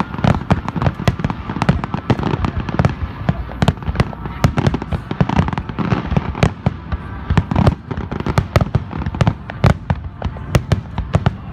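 Fireworks display in a rapid barrage: many aerial shells bursting in quick succession, sharp reports several times a second overlapping with one another.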